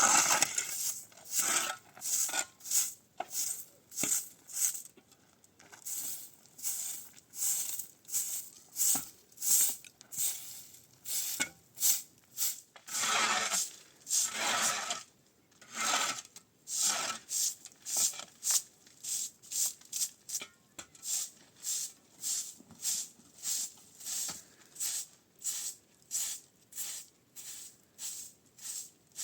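Steady rhythmic rasping strokes of manual work, about two a second, with a few longer, heavier strokes about midway.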